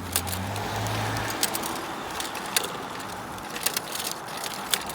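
Hoverboard rolling along pavement: a steady rumble of wheels on the road with scattered sharp clicks, and a low hum for the first second or so.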